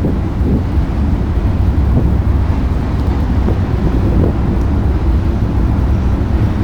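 Long coal train rolling across a railroad trestle: a steady low rumble, mixed with wind on the microphone.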